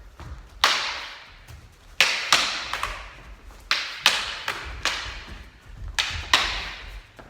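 Strikes landing on a heavy bag: a series of sharp thuds, some in quick one-two pairs, each with a short ringing tail.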